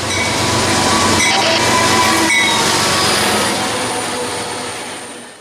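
A train passing close by, the noise of its wheels on the rails carrying several steady high squealing tones. It swells to a peak about two seconds in, then fades away.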